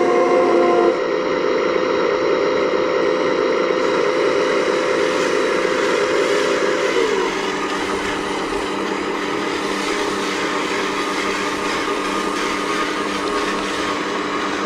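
A radio-controlled model excavator's motors running with a steady whine. The pitch shifts about a second in and drops about halfway through as the load changes.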